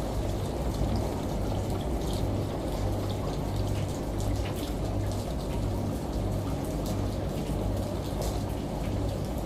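Steady rain pattering with scattered drop ticks, layered over a washing machine's low hum that pulses about every two-thirds of a second, and running water from a shower.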